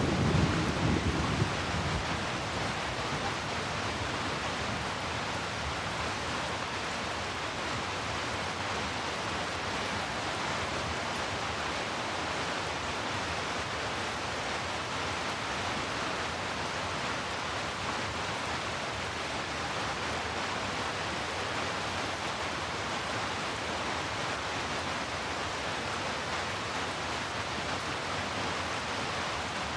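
Heavy rain falling steadily in an even hiss, with the tail of a low thunder rumble dying away in the first second or two.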